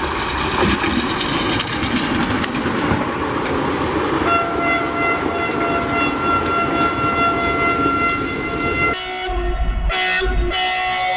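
A train running past with loud rolling wheel-and-rail noise, then a train horn sounding one long steady blast for about five seconds. Near the end the sound cuts to a duller recording with a few low thumps.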